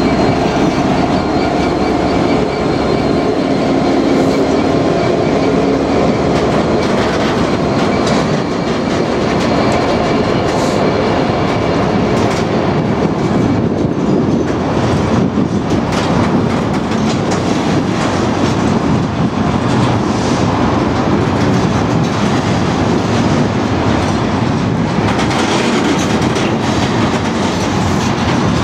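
A long diesel-hauled freight train of engineering wagons rolling steadily past, the wagon wheels clattering over the rail joints. In roughly the first half the Class 66 locomotive's two-stroke V12 diesel can be heard drawing away ahead of the wagons.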